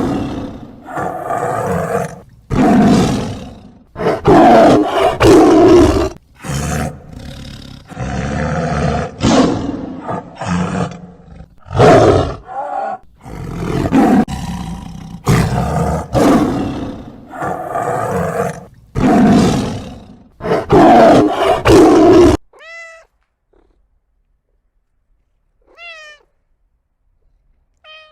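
Lion roaring in a long series of loud, rough roars and grunts, which cut off suddenly about 22 seconds in. Then a cat meows three times, in short, faint, falling calls.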